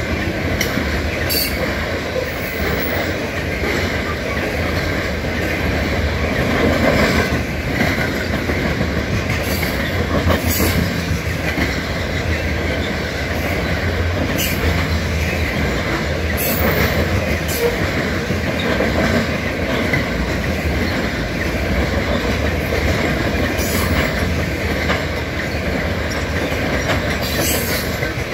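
Covered hopper cars of a freight train rolling past at speed: a steady rumble of steel wheels on rail, broken by irregular sharp clicks.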